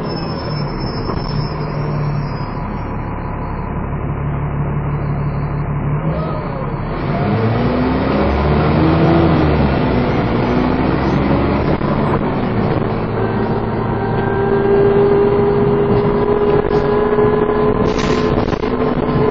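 Dennis Trident 2 double-decker bus engine pulling hard under load, with a steady whining 'hoover' note over the engine drone. The pitch swings up and down about halfway through, and a sharp knock sounds near the end.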